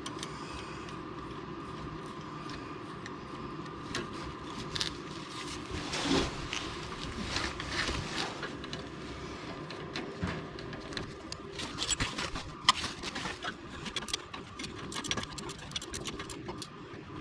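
Scattered metal clicks and scrapes from handling tools and an exhaust hanger and bolt while it is fitted to the exhaust bracket, over a steady hum.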